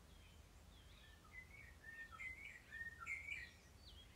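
Wild birds calling: a quick cluster of short chirps and whistles starting about a second in and fading near the end, over a faint low background rumble.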